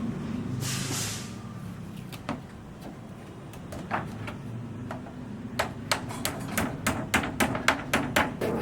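Hammer blows on a building site: a few scattered knocks, then a quick run of sharp strikes in the second half, with a short hiss near the start and a steady low hum underneath.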